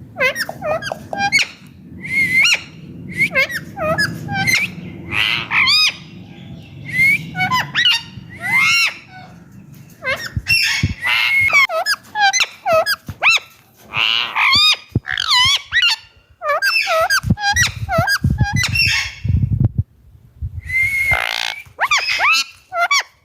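Indian ringneck parakeet calling in a rapid run of short, pitch-bending squawks and whistles, with a couple of brief pauses in the second half.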